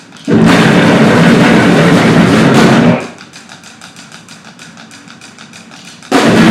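Noise-grind band playing live: a loud blast of dense distorted noise lasting about two and a half seconds, stopping dead, then rapid quieter ticking, then a second loud blast near the end.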